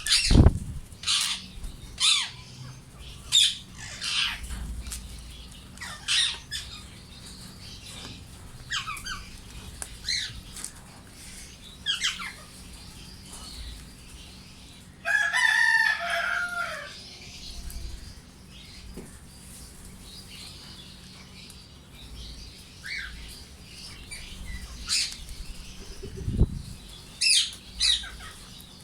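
Indian ringneck parakeets calling: short, sharp, high screeches with a falling pitch, repeated every second or two. About halfway through comes one longer, harsher call of about two seconds, and there are low thumps at the start and near the end.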